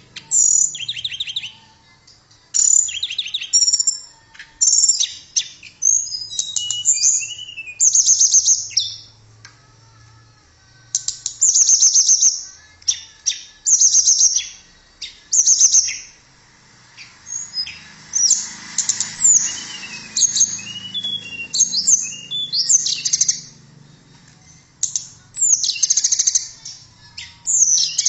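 Tledekan, a small Indonesian flycatcher, singing a long run of short, high, rapid twittering phrases with brief pauses between them.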